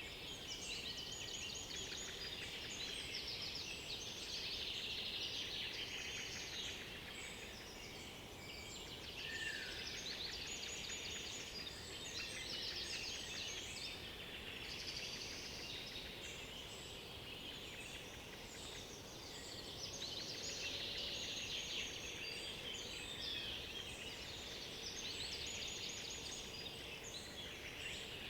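Several songbirds singing at once, overlapping fast trills and chirping phrases over a faint steady background hiss, with a short falling whistle about ten seconds in.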